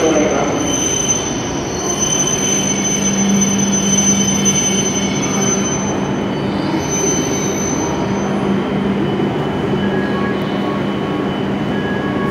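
E7 series Shinkansen train pulling into the platform and braking to a stop, with a steady high-pitched whine that falls away as it halts about halfway through. After it stops, a steady low hum remains.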